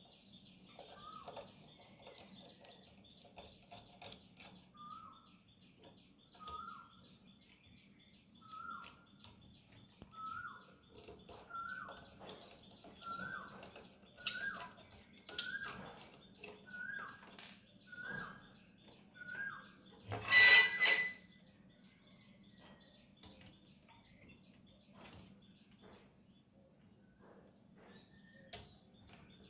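A bird calling a short falling note about once a second over a fast steady ticking, with faint clicks of small screws being undone from a graphics card's fan shroud. One loud, short sound comes about two-thirds through, after which only the faint clicks remain.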